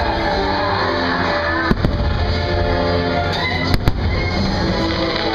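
Orchestral fireworks-show music playing, with firework bursts cracking over it: two pairs of sharp bangs, about 1.7 and 3.8 seconds in.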